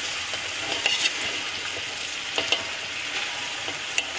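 Hot oil sizzling as chopped vegetables are scraped into a pot of fried ginger-garlic paste: a steady frying hiss broken by a few sharp clicks and scrapes of a metal spatula on the plate and pot.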